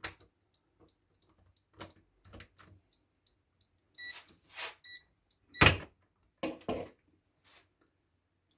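Parts and tools being handled during repair of an electric kettle: a run of scattered clicks and knocks, the loudest a sharp knock a little past the middle, followed by two quick knocks.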